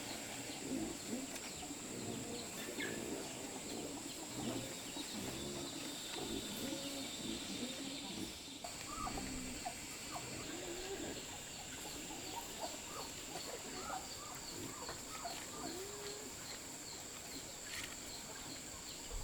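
A flock of chickens clucking: many short, overlapping calls throughout, over a steady high whine and evenly spaced high chirps.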